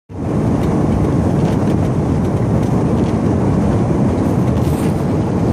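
Pickup truck driving on a snowy road, a steady rumble of engine and tyre noise heard from inside the cab that cuts in suddenly at the start.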